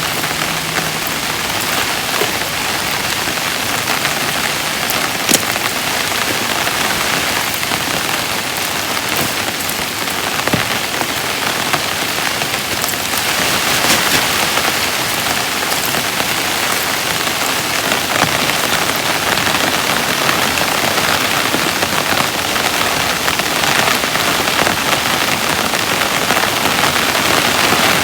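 Heavy rain pouring steadily, with a few sharper drop hits standing out now and then.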